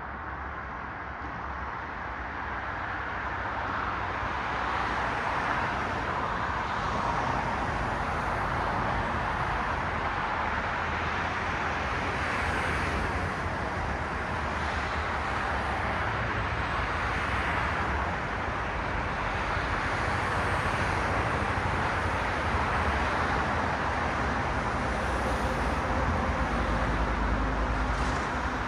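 Road traffic: a steady stream of cars passing, a continuous tyre and engine noise that builds over the first few seconds and then holds.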